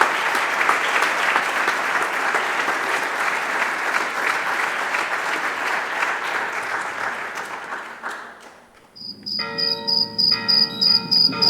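Audience applauding in a hall, the clapping dying away about eight seconds in. Near the end a rhythmic high-pitched chirping like crickets starts over a low steady hum.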